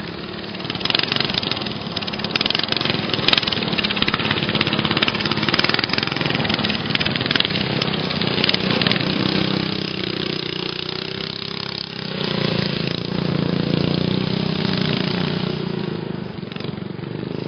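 Small engines of stock racing lawn mowers running hard, their pitch rising and falling as they go around the track.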